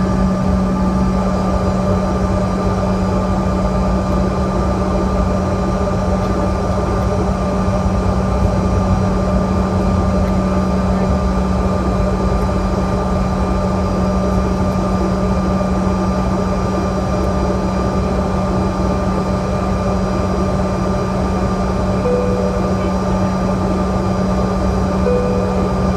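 Cabin noise inside a Bombardier CRJ-200 regional jet: its two rear-mounted GE CF34 turbofans running, a steady loud hum with a constant low drone and a higher whine. Two short faint tones sound near the end.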